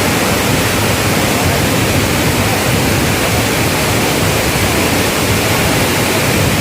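Waterfall in spate after days of heavy rain, water dropping some 80 to 100 feet in two or three tiers: a loud, steady rush of falling water.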